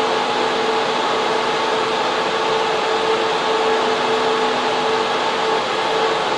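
Server room cooling fans and air handling running, a steady loud whooshing hum with a constant whine near 450 Hz.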